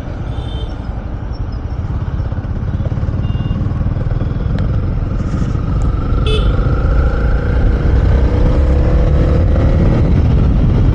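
Honda CB300R's single-cylinder engine under way with heavy wind and road rumble. The engine note climbs as the bike accelerates in the second half.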